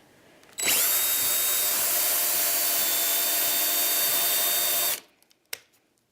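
Electric drill boring a hole through a small block cut from a wooden 2x4: the motor spins up with a brief rising whine, runs steadily for about four seconds, then stops abruptly. A single short click follows.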